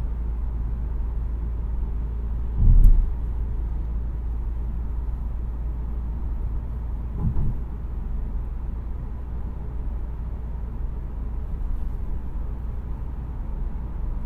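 2017 Mazda CX-3's 2.0-litre SkyActiv-G petrol four-cylinder and road noise while driving, a steady low rumble. A loud thump about three seconds in and a smaller one about seven seconds in.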